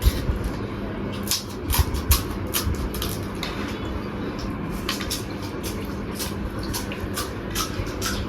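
Crisp crunches and clicks of a crunchy snack being eaten close to the microphone, coming irregularly, over a steady low background hum.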